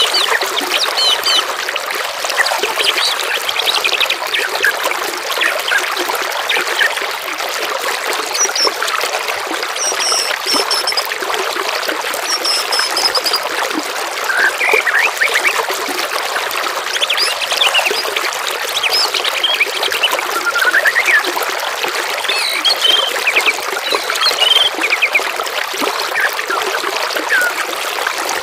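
Steady trickling of running water, with several songbirds chirping and trilling over it in short, quick phrases throughout.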